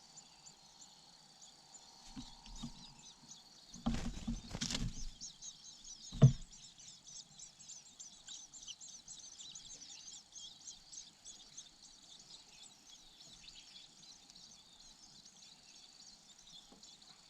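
Long-tailed shrike nestlings begging with a rapid run of high, thin chirps while a parent feeds them, over a steady drone of insects. A cluster of bumps and rustles around four to five seconds in and a single sharp knock just after six seconds are the loudest sounds.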